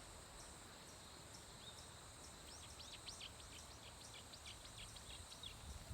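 Faint birdsong over quiet outdoor ambience: many short, high chirps, thickest in a quick flurry through the middle.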